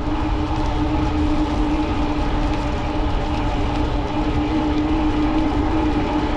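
Electric bike riding at speed on a wet road: steady wind rush and fat-tyre road noise, with a steady hum that is likely the 750 W Bafang rear hub motor under pedal assist.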